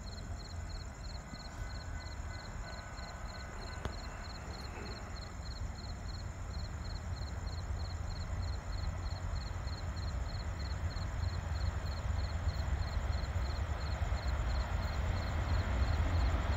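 Distant low rumble of an approaching freight train, growing steadily louder. A faint high pulsing chirp repeats about three times a second.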